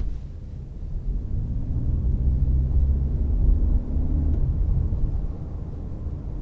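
Toyota C-HR 1.8 hybrid being driven: a steady low rumble of the car on the road, with an engine hum coming in about a second in and dropping away about four seconds in.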